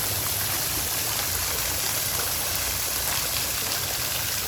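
Outdoor water fountain running: a steady rush of falling and splashing water.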